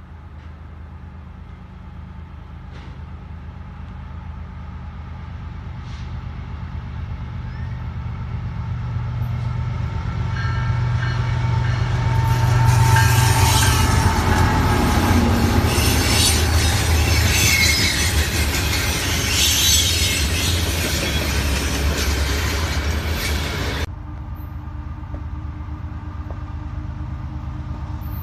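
Diesel-hauled freight train approaching and passing: the locomotives' low engine drone grows steadily louder, then loud wheel and rail noise takes over about halfway through. The noise cuts off suddenly near the end, leaving a quieter low engine hum.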